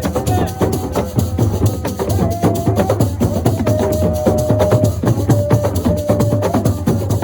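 Senegalese assiko music: a dense, fast percussion rhythm of drums and wood-block-like strikes, with a held melodic line over it.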